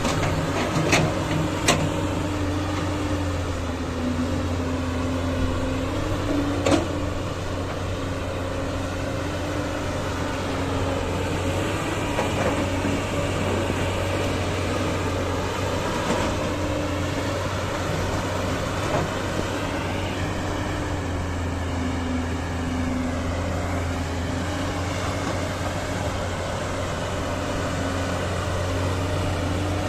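Diesel engine of a heavy earthmoving machine running steadily under working load, its note shifting slightly up and down in pitch. A few sharp knocks come in the first several seconds.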